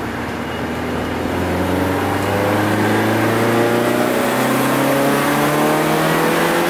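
BMW engine accelerating in gear, heard from inside the cabin: its pitch rises slowly and steadily, and it gets louder over the first two seconds or so. It pulls smoothly without breaking up or the choking misfire it has been showing, which the driver wonders was caused by the fuel filter.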